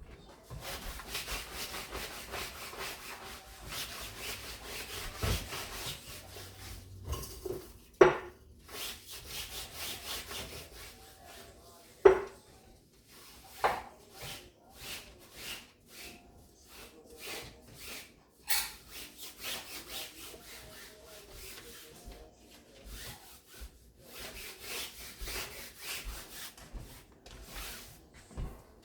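Repeated scrubbing or rubbing strokes during kitchen cleanup, broken by a few sharp knocks. The two loudest knocks come about eight and twelve seconds in.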